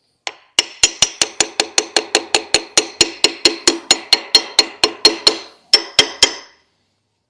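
Hammer striking metal in quick, even blows, about five a second, each with a short metallic ring, with a brief pause near the end. The blows are driving the rear crankshaft seal of a 7.3 Power Stroke diesel into its bore.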